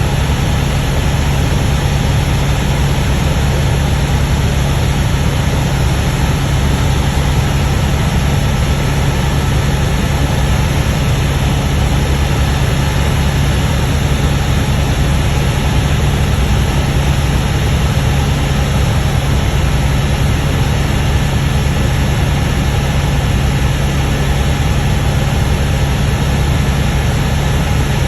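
Helicopter running steadily in flight: a constant low hum over an even rushing noise, with no change in pitch or level.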